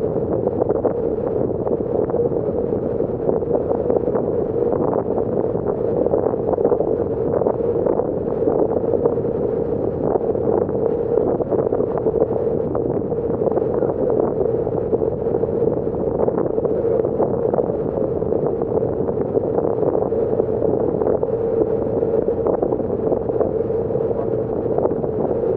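Passenger ferry under way: a steady engine drone with a constant hum, and wind buffeting the microphone in irregular gusts.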